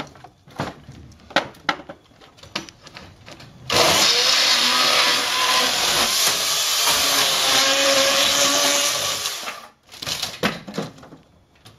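Electric chainsaw cutting into a garage door for about six seconds, its pitch wavering under load. Scattered knocks and cracks come before the cut and again near the end.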